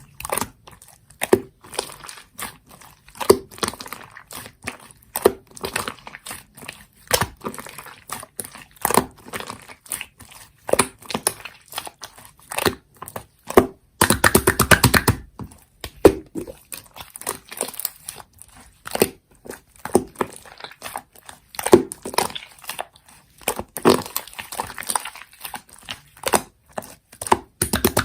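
Slime being pressed and poked by hand, giving irregular sticky pops and crackles, with a denser run of squishing at about the midpoint.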